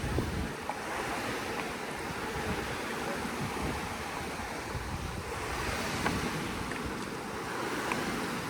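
Steady rushing of moving water at a pond, with wind buffeting the microphone in uneven low rumbles.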